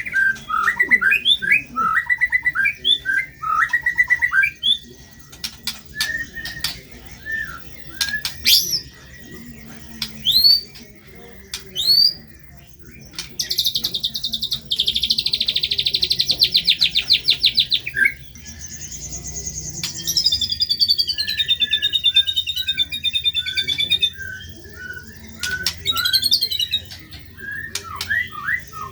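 White-rumped shama (murai batu) singing vigorously in varied phrases, with lovebird-like harsh material. Quick chirps and sharp upswept whistles give way about halfway through to a fast buzzy trill, then a wavering high warble, and near the end a run of short repeated notes.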